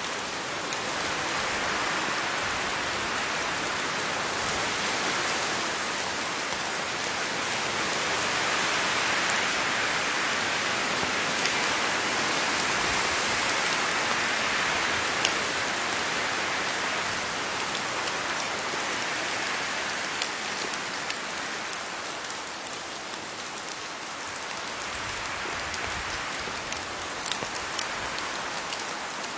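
Steady rain falling on leaves: a dense, even patter with scattered sharper drop ticks, swelling a little midway and easing slightly toward the end.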